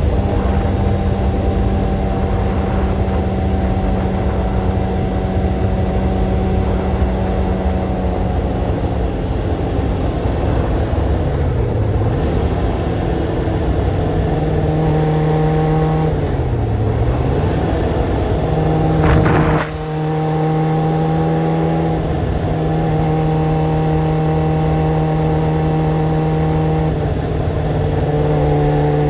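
Sport motorcycle engine running at steady revs under a low rush of wind noise. The engine note dips and climbs back twice partway through, and near the end there is a brief sharp rev.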